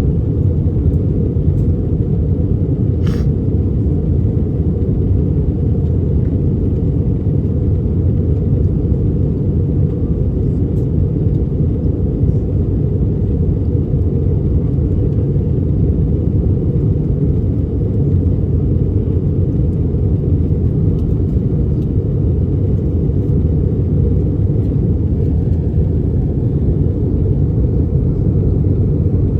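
Steady low rumble of an Airbus A319's engines and airflow, heard inside the passenger cabin during the descent to land, with a brief faint click about three seconds in.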